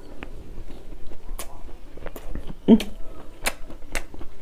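Close-miked mouth sounds of a man chewing a mouthful of rice and chicken with his lips closed: scattered wet smacks and clicks, about five in all, with a brief low hum about two-thirds of the way in that is the loudest moment.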